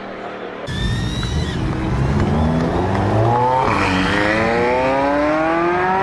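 A hypercar engine accelerating hard, its pitch climbing through the revs, dropping sharply at a gear change almost four seconds in, then climbing again.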